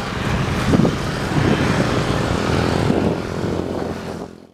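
Rumble of a passenger train passing at a distance, mixed with wind buffeting the microphone, fading out just before the end.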